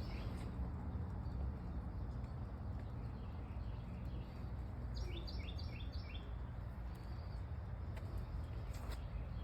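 A songbird sings one short phrase of four or five quick, descending chirps about five seconds in, over a steady low background rumble; two faint clicks come near the end.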